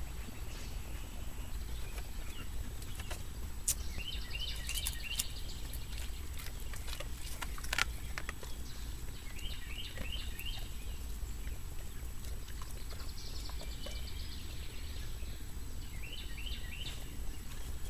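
Outdoor ambience: a bird chirps in short runs of quick high notes, four times, over a steady low rumble. A few sharp clicks stand out, the loudest about eight seconds in.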